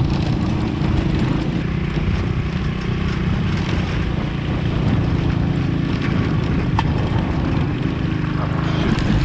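Motorcycle engine running steadily while riding, a continuous low drone with a steady pitch.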